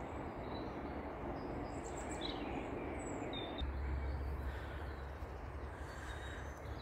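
Outdoor ambience: steady background noise with a few faint, short bird chirps, and a low rumble for a second or so midway.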